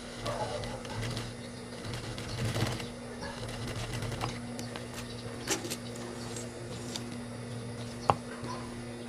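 High-speed sewing machine running, its motor humming steadily as it stitches the zipper seam of a pair of shorts, with light clicks and one sharp click about eight seconds in.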